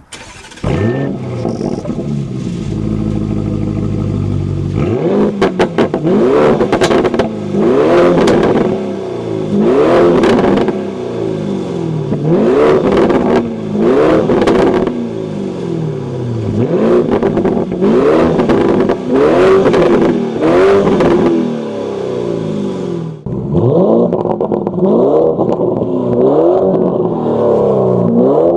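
Lamborghini Urus twin-turbo V8 through a titanium valved catback exhaust: it starts about half a second in and idles briefly, then is revved over and over, about every two seconds, with crackles as each rev falls away. After a short break near the end the revs come quicker and sound duller.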